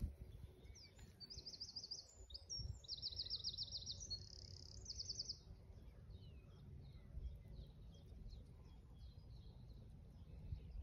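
A songbird singing: several fast, high trills in the first half, then only scattered faint chirps, over a low steady rumble.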